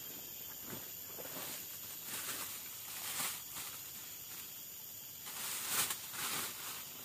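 Irregular short rustling noises, about half a second each, with the loudest around three and six seconds in, over a steady high-pitched drone of forest insects.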